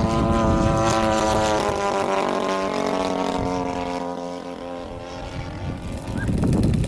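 Radio-controlled model airplane engine running with its propeller spinning, a steady buzzing note that drops slightly in pitch and fades away about two thirds through as the plane flies off. A rough, unpitched rumble rises near the end.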